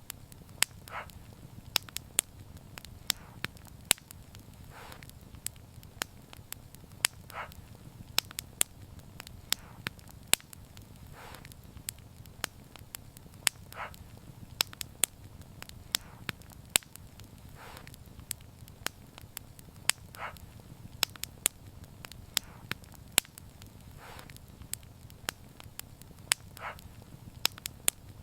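Wood fire crackling, with irregular sharp pops of varying loudness over a steady low rumble, and a soft short hiss every few seconds.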